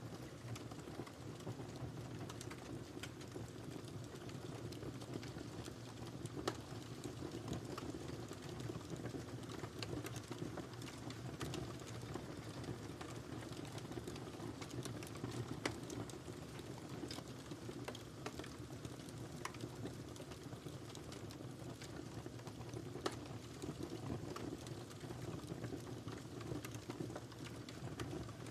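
Fireplace fire burning steadily with a soft low hiss and frequent sharp crackles and pops, a few of them louder than the rest.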